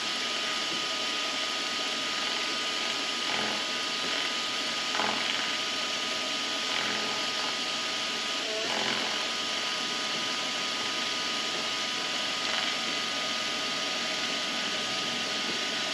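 Vevor MX400 mini lathe running at about 1250 RPM, a steady hiss with a constant whine, while a dull high-speed-steel tool takes a light skim cut of about a thousandth on aluminium to clean up a torn, rough surface.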